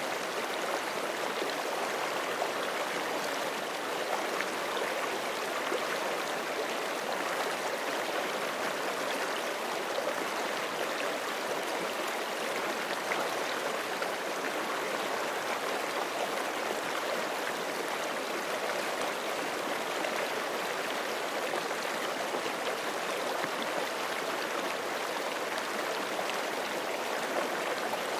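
Forest creek flowing steadily over rocks: an even, continuous rushing and babbling of water.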